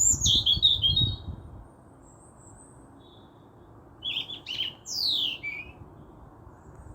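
Wild birds singing and calling: a quick run of high chirps over a low rumble in the first second and a half, then a pause, and another burst of calls about four seconds in that ends with a long note sliding downward.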